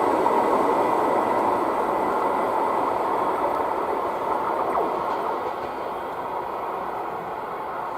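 ER2T electric multiple unit running along the rails, its wheel noise fading steadily as it moves away.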